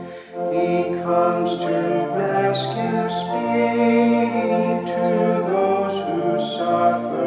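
A congregation singing a hymn with organ accompaniment: sustained chords moving from note to note, with a short break between lines just after the start.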